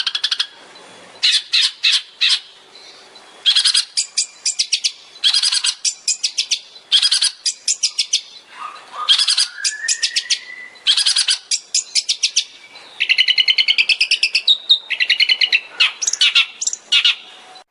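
Long-tailed shrike (cendet) singing in rapid bursts of fast repeated high notes, the shot-like 'tembakan' phrases, with a slow rising whistle about nine seconds in.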